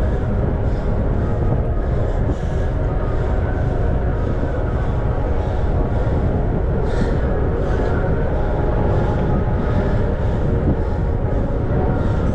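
Steady wind rushing over the microphone and tyre rumble from a bicycle riding along a paved path, with a faint swish repeating about twice a second.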